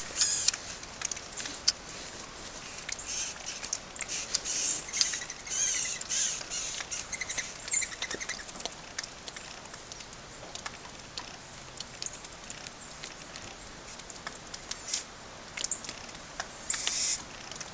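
Small birds at a winter feeding spot, with short high chirps and many light, quick ticks and pattering sounds.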